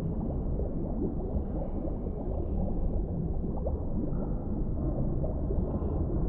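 Underwater ambience: a steady deep rumble of water with dense bubbling and gurgling, and a few faint short tones higher up.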